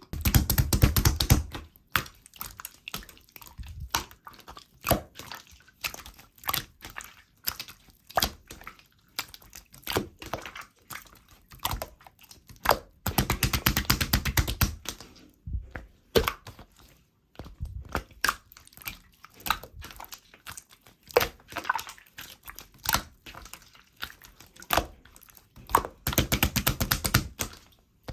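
Slime being squished and pressed by hand, making rapid wet clicks and crackles. There are thicker bursts of crackling near the start, about halfway through and near the end.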